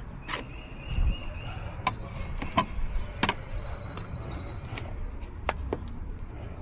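Scattered sharp clicks and knocks over a steady low rumble, with a brief thin high tone early on and a rapid high trill of about ten pulses a second around the middle.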